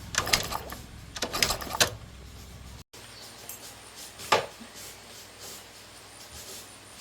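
Mechanical clicking and clattering of metal parts being handled, over a low hum, cut off suddenly just under three seconds in. A single sharp click follows about a second and a half later.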